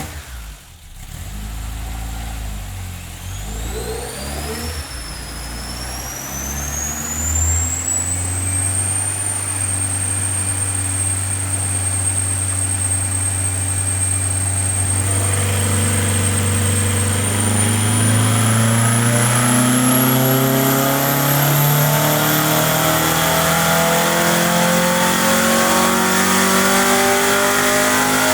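2276cc air-cooled Volkswagen-type flat-four engine with dual 44mm IDF carburettors and a sidewinder exhaust, running under load: its pitch holds fairly steady for several seconds, then climbs steadily through the revs over the second half. A thin high whine rises alongside it.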